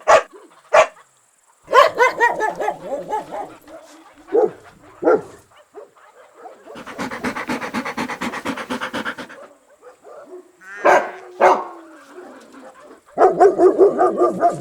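Dog barking: short single barks and a quick run of barks near the end, with a few seconds of rapid, even pulsing sound in the middle.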